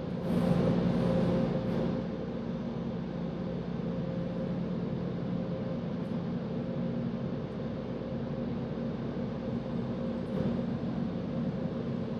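Touchless car wash machinery humming steadily, heard from inside the car, with a louder rushing burst, like a spray pass hitting the car, about half a second in that lasts around a second and a half.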